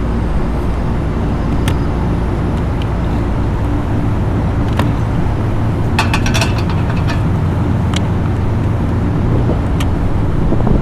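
Steady low drone of running machinery with a hum in it. A few light clicks and taps come about six seconds in.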